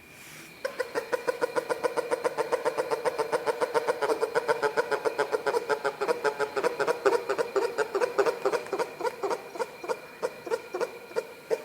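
A sleeping pet making a rapid, regular rattling noise that sounds like a motorbike engine, at roughly seven pulses a second. It starts abruptly about half a second in and stops just before the end.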